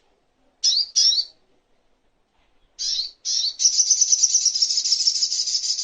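Sogok ontong song: two pairs of short, high, rising chirps, then from about three and a half seconds in a fast, high trill that runs on.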